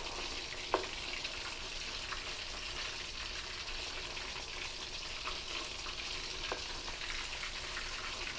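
Pieces of pork neck deep-frying in a wok of hot oil, a steady sizzle. A few sharp clicks of the metal spatula against the wok come through as the pieces are turned, the loudest just under a second in.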